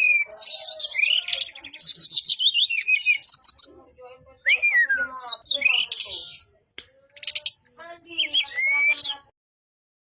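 A songbird singing in full, persistent song: a fast, varied stream of chirps, trills and rising and falling whistles with short pauses, cut off abruptly near the end.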